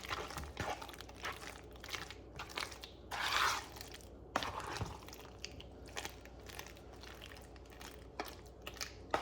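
Kitchen handling sounds: scattered light clicks, scrapes and knocks of utensils and dishes, with a brief rustling scrape about three seconds in and a sharp click soon after.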